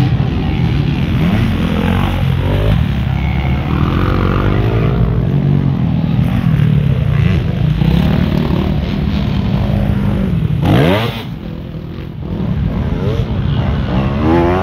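Motocross motorcycle engines running and revving, their pitch rising and falling. One sharp rising rev comes about eleven seconds in, then the sound drops briefly before building again.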